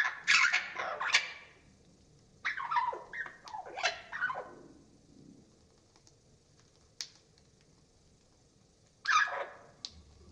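Budgerigar calls played back slowed down, so they sound deeper and harsher, like a larger parrot: three bouts of squawking chatter, at the start, around three seconds in and about nine seconds in, with a single click around seven seconds.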